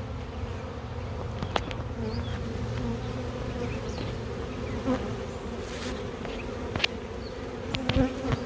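Swarm of honey bees buzzing, a steady hum, with a few brief sharp clicks.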